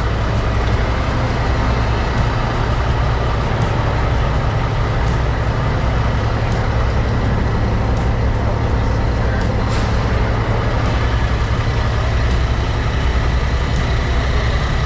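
Semi truck diesel engine running with a steady, loud low rumble.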